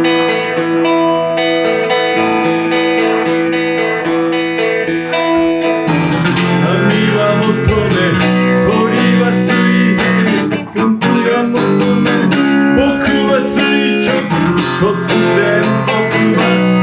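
Solo electric guitar, a Van Zandt Telecaster through a Roland JC-120 amp, playing an instrumental passage: held, ringing chords for about six seconds, then busier picked playing with many quick notes.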